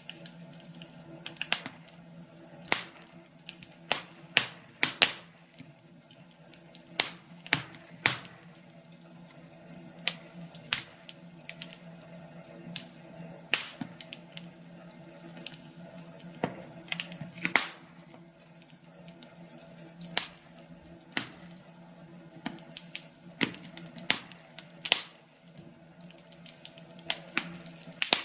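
Wood fire crackling: irregular sharp pops and snaps of burning logs, sometimes in quick clusters, over a low steady background.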